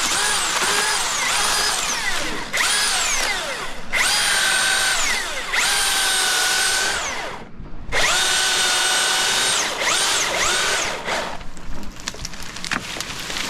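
Milwaukee battery-powered chainsaw revving in a series of bursts as it cuts. Its whine sags in pitch each time the chain bites into the wood and climbs back when it eases, and the saw stops about eleven seconds in. It is running the out-of-the-box safety chain, which the faller says is not dialed in and cuts slow.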